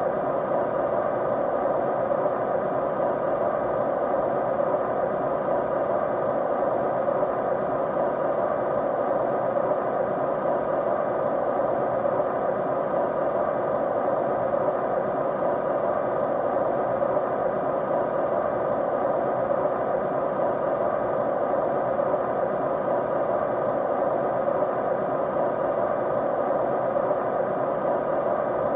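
Steady running-fan noise: an even, unchanging whoosh with a few faint steady tones in it, fullest in the low-middle range.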